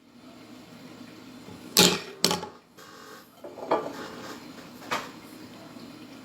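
Handling noise from the opened wine bottle, cork and screw: a few sharp knocks and clicks, two close together about two seconds in and single ones near four and five seconds, over a faint steady hiss.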